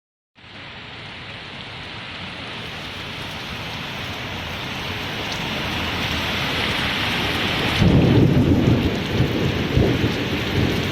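Heavy rain pouring in a storm, swelling louder over the first seconds. About eight seconds in, a loud low rumble lasts a couple of seconds.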